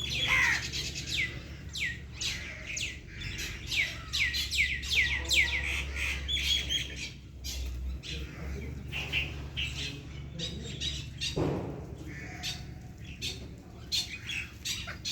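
Many small birds chirping busily together, a rapid run of short, high, falling chirps, with one lower, harsher call about eleven seconds in.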